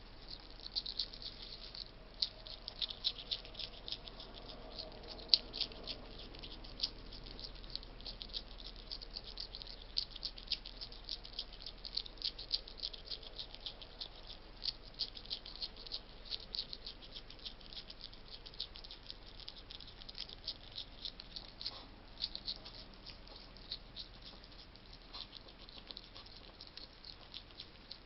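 Wild hedgehog eating dry food: a fast, irregular run of small crunching clicks as it chews.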